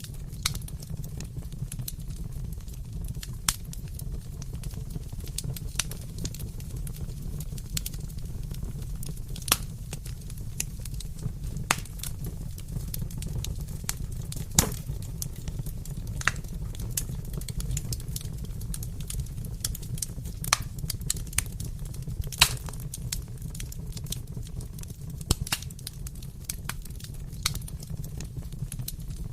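Wood fire crackling in a fireplace, with a steady low rumble under irregular sharp pops and snaps.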